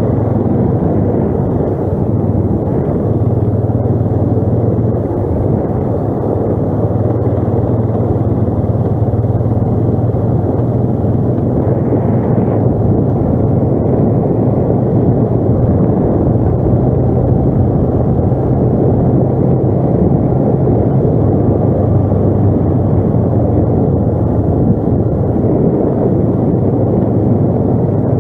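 ATV engine running steadily while riding, a continuous low drone that holds an even pitch and level.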